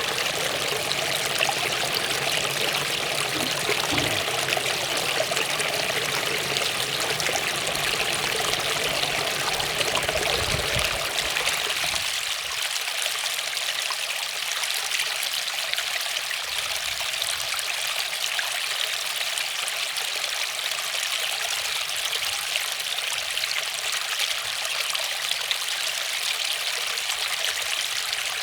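Waterfall: steady rushing, splashing water. About twelve seconds in, the low rumble underneath drops away and a thinner, hissing rush carries on.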